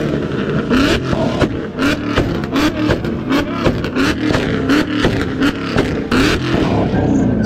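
Car engine being revved in quick repeated throttle blips, its pitch rising with each blip about once every 0.7 seconds, with sharp exhaust pops and crackles between them.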